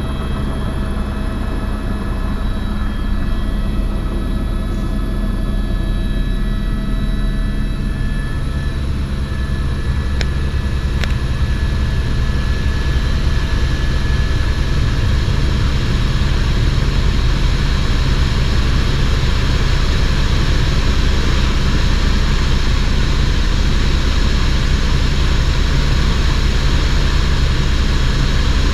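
Helicopter running steadily in flight, heard from on board: a loud, continuous drone with a faint high whine, growing a little louder about halfway through.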